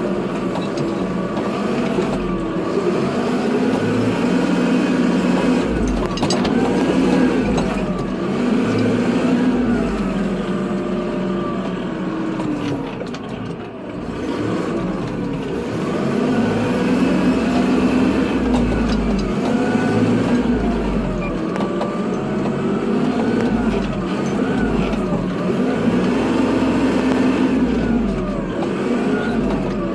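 Kubota tractor's diesel engine running under load while plowing snow, its pitch rising and falling again and again every few seconds as the engine is throttled up and down.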